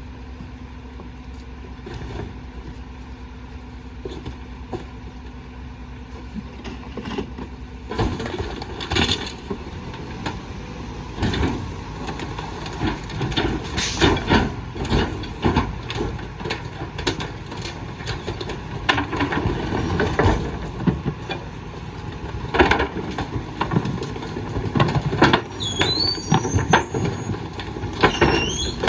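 Rear loader garbage truck engine idling steadily. About 8 seconds in, the packer starts crushing bulky waste in the hopper: loud, irregular cracking and crunching that keeps on, with high squeals near the end.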